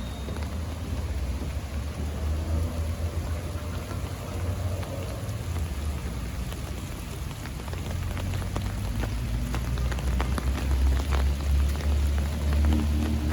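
Light rain falling, with many scattered drop ticks over an even hiss and a steady low rumble. Music fades in near the end.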